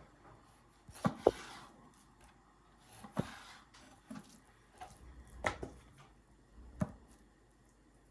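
A few short, sharp knocks and clatters at irregular intervals, two close together about a second in and others spread through the rest, like objects being handled and set down.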